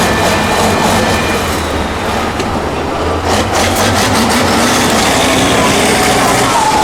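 A six-wheel-drive trial truck's engine running steadily, with repeated clanks and knocks through the first half.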